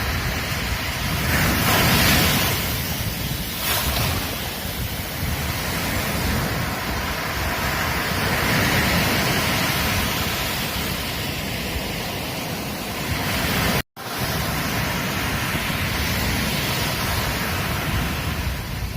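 Ocean waves breaking and washing up on a beach in a steady, surging rush that swells and ebbs, loudest about two seconds in. Near the end there is a sudden split-second break to silence, then the surf resumes.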